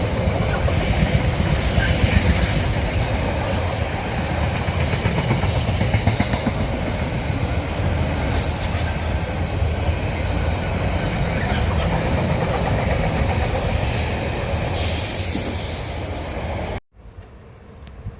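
A train running past on the rails: a steady heavy rumble with high-pitched wheel squeal and some clickety-clack of wheels over rail joints. It cuts off suddenly near the end, leaving only a faint breezy background.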